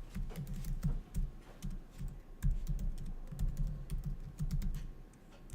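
Typing on a computer keyboard: quick, irregular keystrokes as a title is entered, thinning out near the end.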